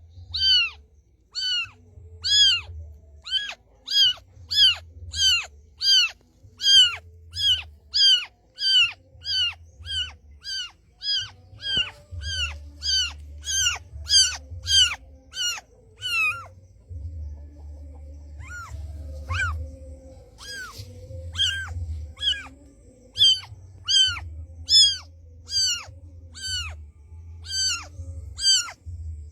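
A kitten mewing over and over: short, high, downward-falling cries about two a second, breaking off for about two seconds just past halfway and then resuming.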